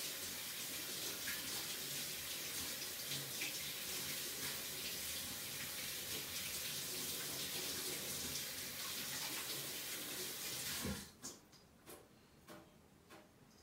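Tap water running steadily into a sink, then shut off near the end with a short knock, followed by a few faint clicks.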